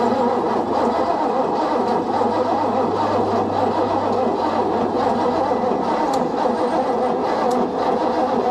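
Starter cranking the boat's 5.7-litre Chevy 350 V8 inboard over and over without it firing: the engine isn't getting any spark, not even a flub.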